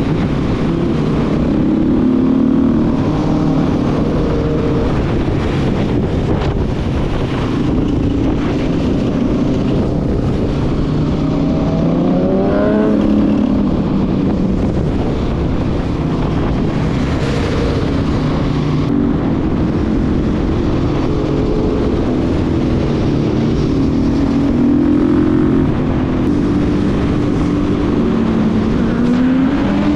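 Motorcycle engine running at highway speed, with wind rushing over the microphone. The engine note rises about twelve seconds in and again near the end as the revs climb.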